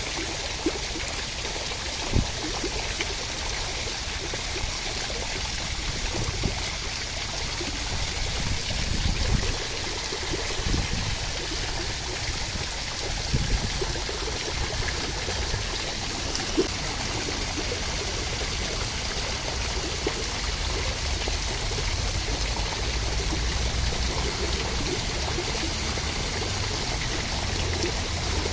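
Steady rain for relaxation, a continuous even hiss of falling water, with a few brief soft thumps.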